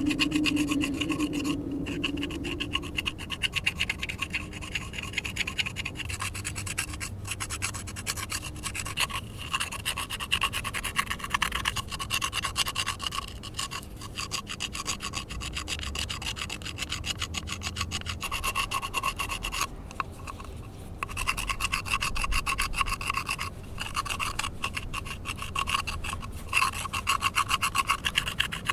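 A clay pot being sanded by hand: quick rasping strokes that run on, with short pauses about two seconds in and again around twenty seconds in.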